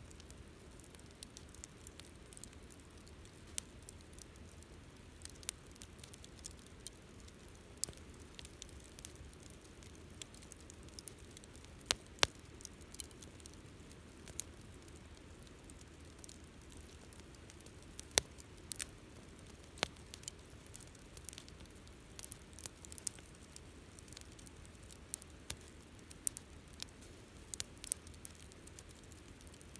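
Wood campfire crackling: a low steady background with scattered sharp pops and snaps at irregular intervals, a few louder ones about twelve and eighteen to twenty seconds in.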